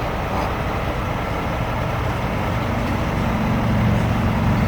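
Heavy truck diesel engine of a Peterbilt rotator wrecker running steadily, its low hum growing louder and steadier from about halfway through.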